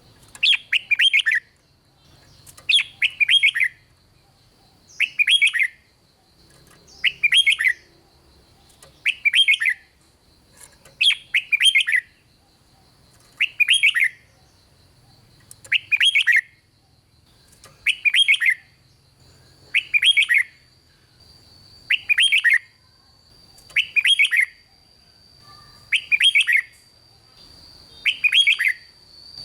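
Red-whiskered bulbul singing short, rich, warbling phrases, one about every two seconds.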